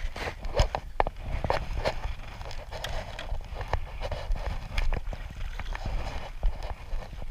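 Irregular knocks and scrapes on a kayak, several a second, over a low rumble.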